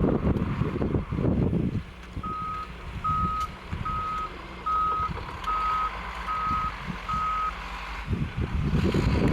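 A truck's reversing alarm beeping seven times, a little more than one beep a second, over a low rumble that is loudest at the start and again near the end.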